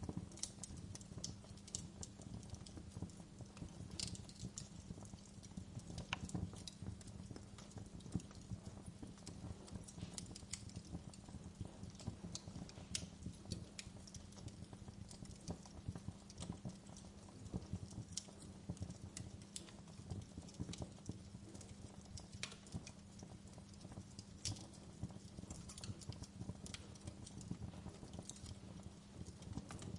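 Wood fire crackling: irregular small snaps and pops, a few sharper ones standing out, over a steady low rumble of the burning.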